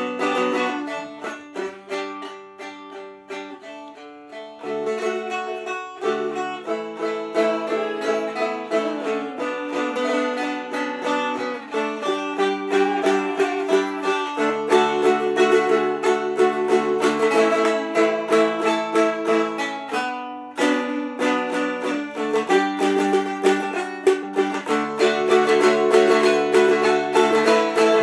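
Two Seagull Merlin dulcimers played together in a plucked improvisation, with melody notes over held lower notes. The playing softens a few seconds in and breaks off briefly about twenty seconds in before going on.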